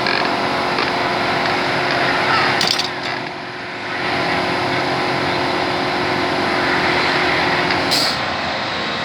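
Steady workshop machine noise, a running motor with a held hum of a few steady tones, broken by two short, sharp hisses about three seconds and eight seconds in; the hum stops with the second hiss.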